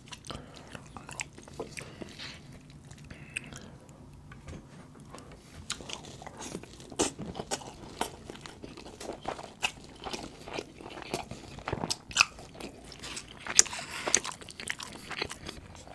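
Close-miked chewing of a mouthful of rice and butter chicken, with many short sharp mouth clicks; quieter for the first few seconds and louder from about six seconds in.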